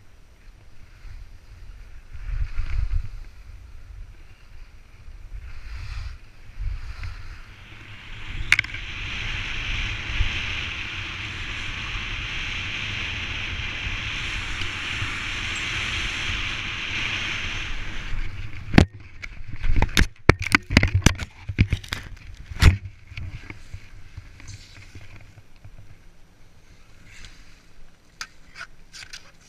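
Skis hissing steadily over snow with wind buffeting the microphone. About two-thirds of the way through, the hiss gives way to a run of sharp knocks and thumps, with a few lighter clicks near the end.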